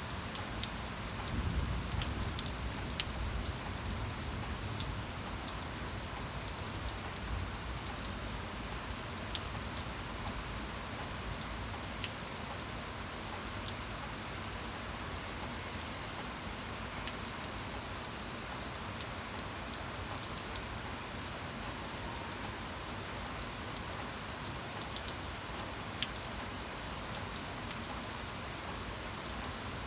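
Steady rain falling on a surface, a constant hiss with many individual drops ticking sharply through it. A low rumble sits under the rain for the first few seconds.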